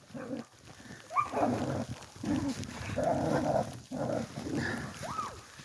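Dogs giving a string of short barks and yips, several of them rising or arching in pitch, as they play.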